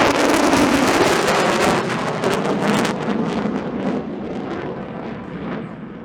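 Loud roar of a jet aircraft fading away, with a crackle in it; the hiss drops off about halfway through and the rumble dies down toward the end.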